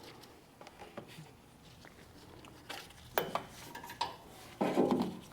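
Light metallic clinks and knocks of hand work on a tractor's battery mounting as it is freed, a few separate taps, then a louder clatter near the end.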